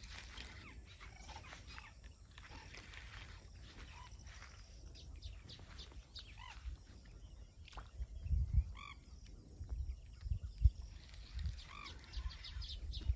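Scattered short birdcalls, each a quick rising-and-falling note, over quiet open-air background. Several low thumps come in the second half and are louder than the calls.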